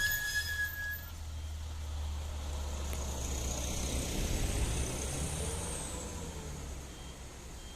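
A motor vehicle's engine running close by, a steady low rumble, with a short high tone in the first second and a slight rise and fall in pitch around the middle before it fades a little.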